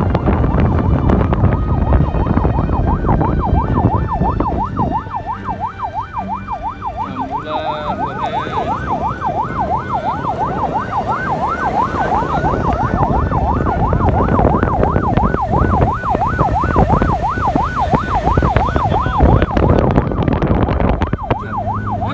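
Emergency vehicle siren in a fast yelp, its pitch rising and falling about four times a second, over low wind and vehicle rumble.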